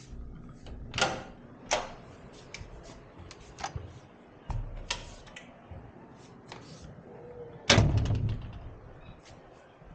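Irregular knocks and clicks of someone walking and handling things, with the loudest thump a little under eight seconds in.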